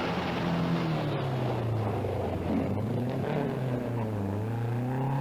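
Rally car engine running hard: its note drops as the car slows, then climbs again as it accelerates near the end.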